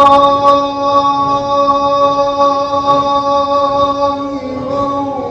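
A man's voice singing one long, steady held note in Arabic religious chant (inshad), shifting pitch slightly near the end.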